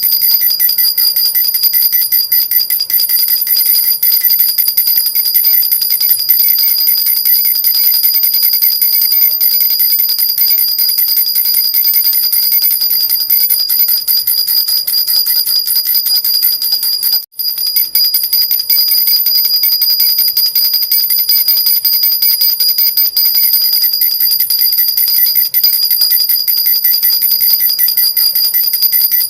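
A jhunjhuna baby rattle shaken continuously, a fast, steady jingling with a bright ringing. It stops for a moment a little past halfway and then goes on.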